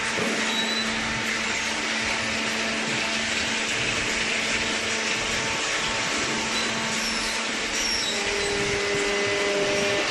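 Hydraulic cardboard baler running: a steady mechanical hum and hiss from its motor and hydraulic pump, with a faint steady tone underneath. A second, higher tone joins about eight seconds in.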